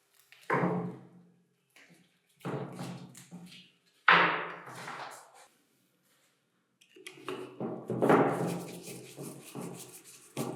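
Metal knocks and clanks while a concrete vibrator is taken apart. There are three separate thuds, each ringing on briefly, the one about four seconds in the loudest, then a quicker run of knocks and clatter from about seven seconds in.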